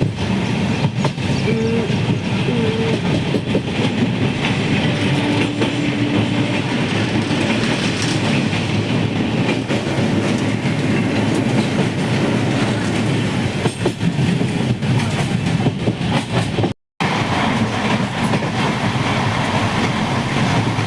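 A train running on its rails, a loud, steady clatter of wheels over the track with a brief dropout near the end.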